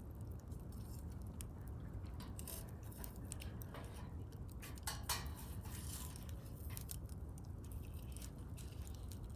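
Wood fire crackling and popping: irregular sharp snaps over a low steady burning rumble, with a denser, louder run of pops about halfway through.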